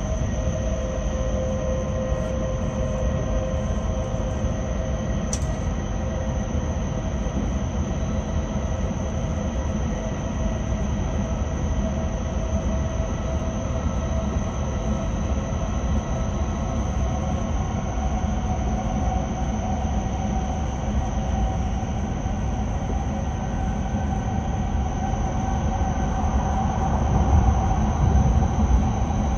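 E6-series Shinkansen running, heard from inside the car: steady rumble and hiss of wheels on rail with the whine of its Hitachi IGBT traction inverter and motors. The whine climbs slowly in pitch from about halfway, and the low rumble grows louder near the end.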